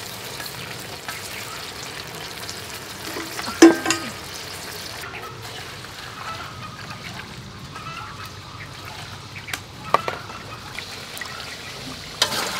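Tiger shrimp frying in a wok with a steady sizzle as chopsticks stir them, broken by a loud short call about three and a half seconds in. About five seconds in the sizzle stops and soft water sloshing and light knocks follow as red chillies are rinsed in an aluminium bowl of water.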